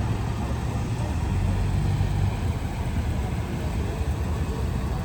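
Pickup truck running while the group drives off, a steady low engine rumble with road noise.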